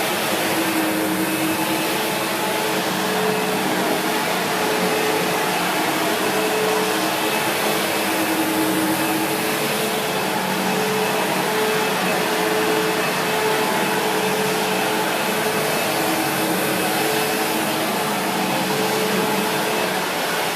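SEBO X4 Extra upright vacuum cleaner running steadily while vacuuming, its motor and brushroll giving an even rushing noise with a steady hum.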